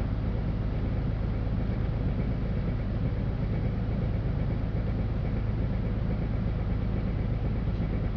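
LiAZ-5292.65 city bus under way, heard from inside the cabin: a steady drone of engine and road noise with a faint constant whine, no stops or changes.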